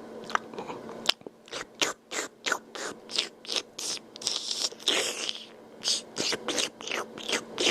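A man making repeated slurping, mouth-smacking noises, a quick run of short wet bursts about three a second, over a steady low hum.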